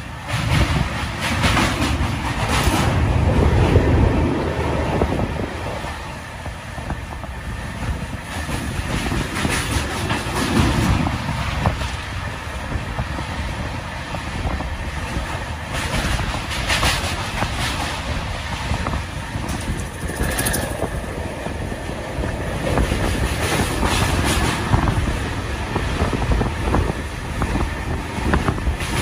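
Train running over a steel truss railway bridge, heard from on board: a steady rumble of wheels on rails with scattered sharp clacks.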